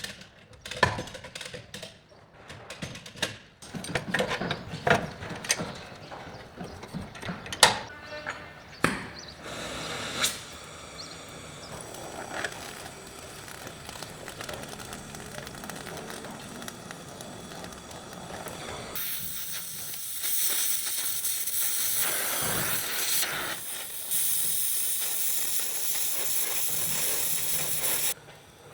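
Scattered sharp knocks and clatter of body-shop work, then, about two-thirds in, a steady hiss of compressed air spraying that stops abruptly near the end.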